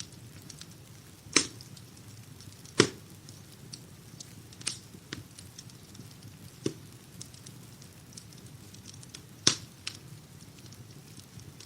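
Wood fire crackling in a fireplace: a steady low rumble of the flames with scattered small ticks and a handful of sharp pops, three of them loud.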